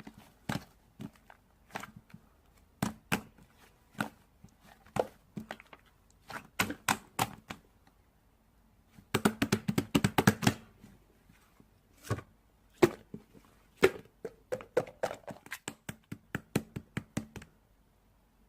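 Irregular sharp taps and knocks in a small room, with a quick flurry of taps about nine seconds in and faster runs of taps later.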